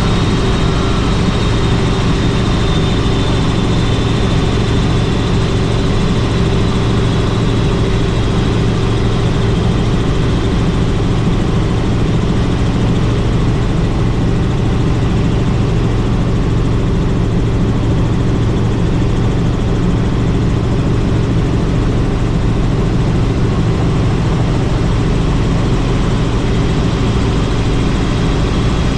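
Helicopter in flight: steady, loud rotor and engine noise with a deep drone and a faint high whine, unchanging throughout.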